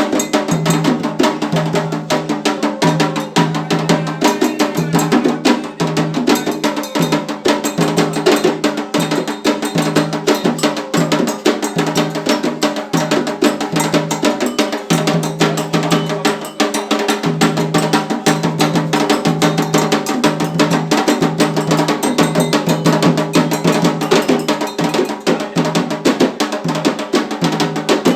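Candomblé ritual drumming: hand drums and a clanking metal bell playing a fast, steady rhythm.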